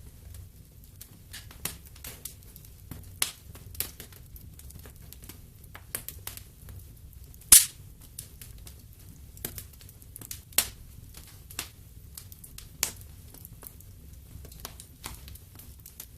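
Wood fire crackling in a fireplace: irregular sharp pops and snaps over a low, steady burn, with one loud pop about halfway through.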